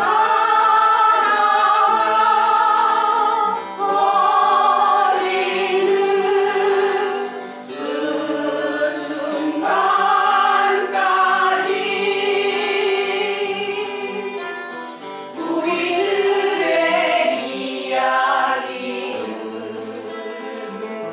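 Several voices singing a slow Korean folk song together in sustained phrases, over a strummed acoustic guitar.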